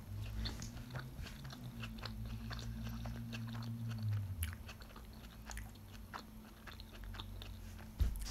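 A person chewing a mouthful of chicken burrito close to the microphone: soft, irregular wet mouth clicks and smacks. A low steady hum underlies the first half and stops about halfway through.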